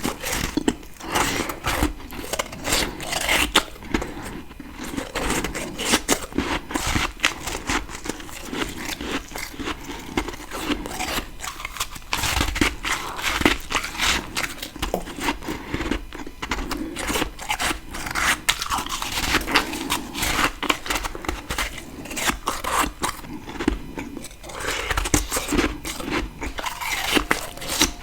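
Close-miked ice being bitten and chewed, a continuous run of crunching with dense crackles and snaps, bite after bite.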